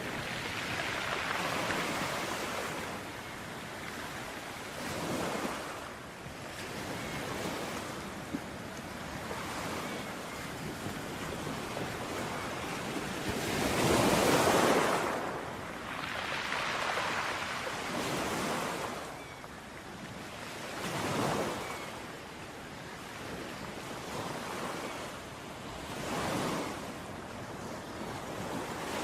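Ocean surf: waves breaking and washing up a beach, swelling and fading every few seconds, the largest wave about halfway through.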